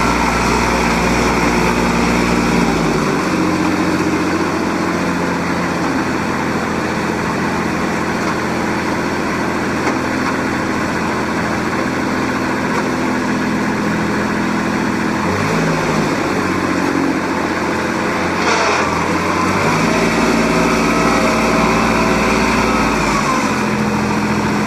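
Kubota L35 tractor loader backhoe's 35 hp Kubota diesel running. Its engine note steps down and back up several times as the revs change.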